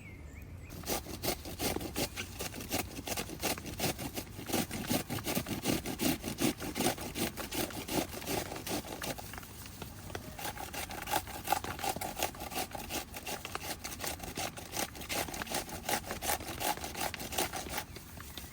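Rapid, rhythmic scraping strokes, several a second, starting about a second in and stopping shortly before the end; about halfway through the scraping turns higher-pitched.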